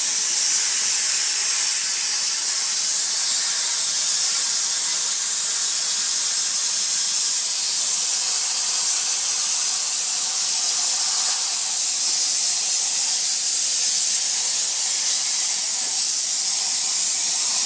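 Enrich Fogger 17 bed-bug sprayer running with a steady, unbroken high hiss from its spray jet.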